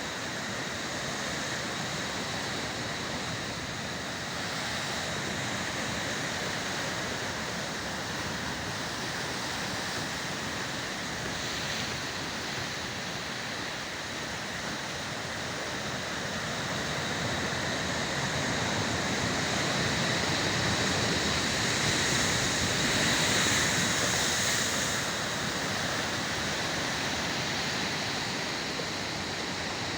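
Sea surf breaking, a steady wash of waves that swells louder for a few seconds past the middle.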